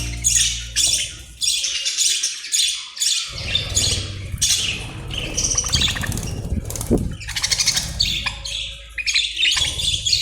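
A group of Australian parrots chirping and squawking in a rapid, overlapping chatter of high calls.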